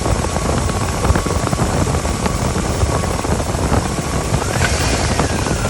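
Steady low rumble of a running vehicle, with a faint whine that rises and dips near the end.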